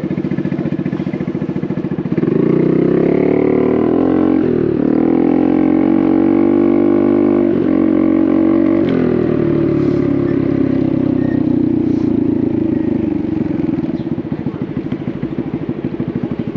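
Honda Navi's small single-cylinder four-stroke engine with a Vance & Hines exhaust, running low, then opened up about two seconds in so the engine pulls up louder and higher. The pitch drops briefly twice as the throttle eases and reopens, then the bike settles and the engine quietens near the end.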